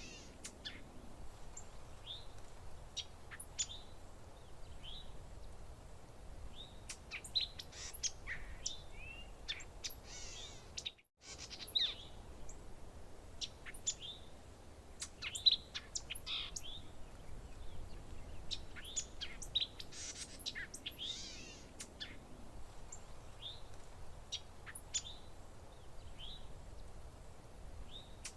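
Many birds chirping and calling, short sharp notes and quick sweeping trills overlapping one another over a faint steady background rush. About eleven seconds in, all sound cuts out for a moment and then resumes.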